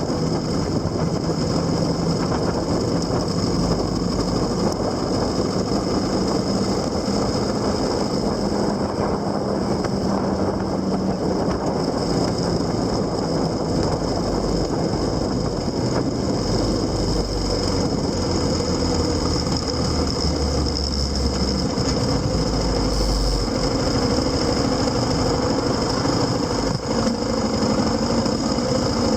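Vehicle engine running while under way, heavy with wind and road noise, its pitch shifting as the speed changes.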